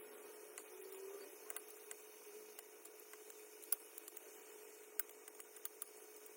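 Faint, scattered light clicks and taps of small objects being handled, a few sharper ones around the middle, over a faint steady hum.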